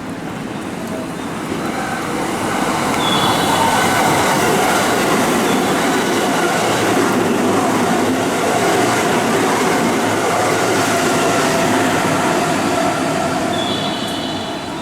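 Electric train running along a station platform, growing louder over the first few seconds and easing off near the end. A high, thin squeal from the wheels on the rails comes at about three seconds and again near the end.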